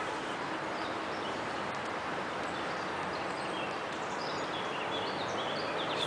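Small birds chirping in short high notes, more often in the last few seconds, over a steady outdoor background hiss of distant city noise.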